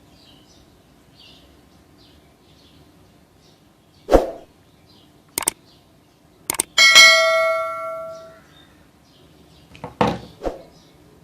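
Hard parts knocking and clanking as they are handled, with one metal strike about seven seconds in that rings out like a small bell for about a second and a half. Faint bird chirps sound in the background.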